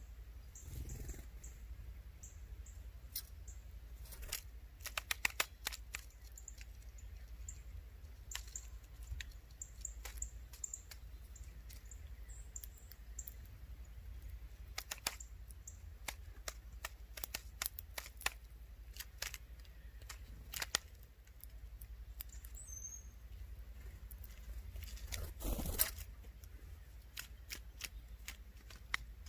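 Woodpecker pecking at wood: sharp, separate taps coming in short irregular runs. Near the end there is a brief rushing swell.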